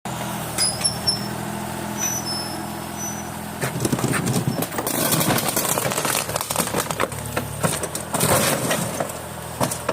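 Excavator diesel engine running steadily while its bucket smashes a refrigerator: two spells of crunching, clattering metal and plastic, the first about four seconds in and the second about eight seconds in, then a sharp hit near the end.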